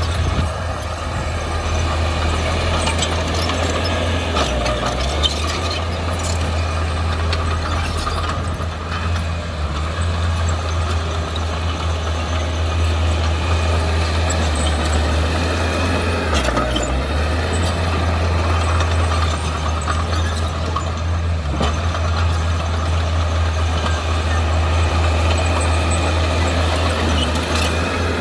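Diesel engine of heavy earthmoving equipment running under work, a steady low drone that dips briefly twice, with a few faint knocks over it.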